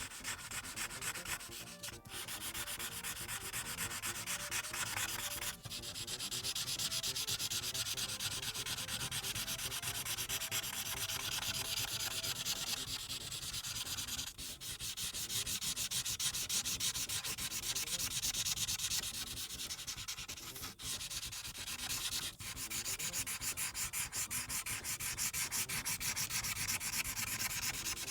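Marker tip rubbing back and forth on paper in quick, dense strokes as a large area is colored in, with a few brief pauses between passes.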